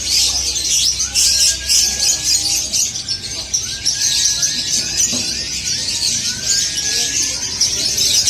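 A group of canaries chirping and twittering densely and without a break, with short whistles that rise and then hold, repeated again and again.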